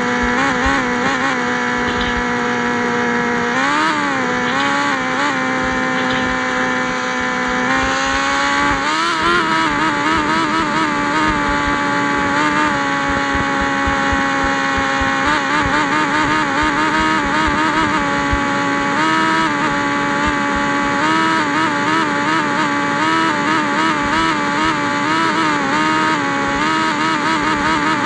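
Yamaha XJ6 inline-four motorcycle engine with an open, muffler-less exhaust, running loudly under way at a mostly steady pitch. The pitch rises and falls briefly a few times, and from about halfway on it wavers up and down in a regular rhythm.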